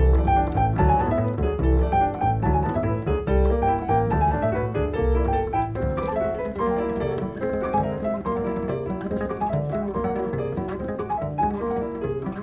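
Jazz duo of piano and double bass playing: plucked upright bass notes under piano chords and melody, the bass heaviest in the first half.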